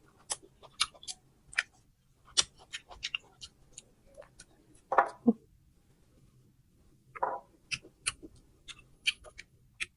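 Close-up chewing of crunchy fruit: irregular crisp crunches and mouth clicks, with two longer, louder wet mouth sounds about five and seven seconds in.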